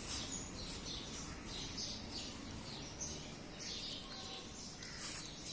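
Birds chirping, short high calls repeating about twice a second over a faint steady outdoor hum.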